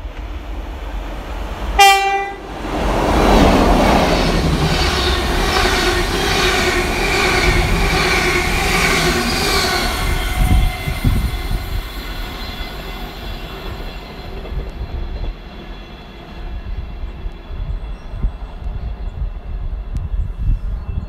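A train gives one short horn blast, then runs past at speed with a loud rush of wheel and rail noise. The noise builds within a second, holds for about seven seconds, then slowly dies away.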